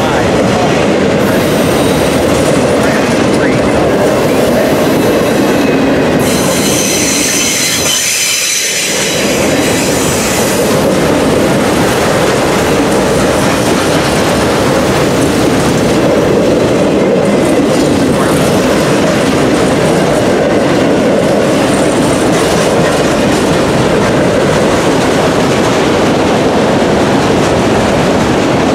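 Autorack freight cars rolling past close by: a steady rumble and rattle of steel wheels on rail, with high-pitched wheel squeal from the curve coming and going, strongest about a quarter of the way in.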